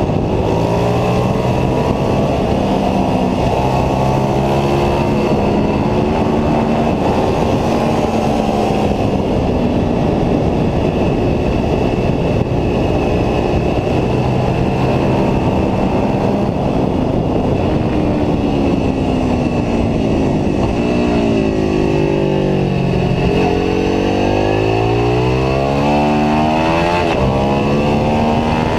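Ducati 749S superbike's 90-degree V-twin engine heard onboard, its pitch climbing and dropping through gear changes as it accelerates and brakes, with heavy wind noise over the microphone.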